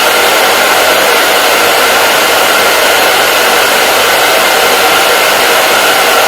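Hair dryer running steadily on a constant setting, an even blowing hiss with a faint steady whine in it.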